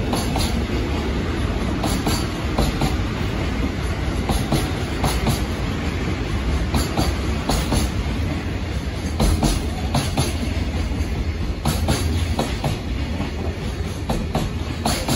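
JR Freight container train's flatcars rolling past: a steady low rumble of wheels on rail with a run of sharp clicks as the wheels cross rail joints.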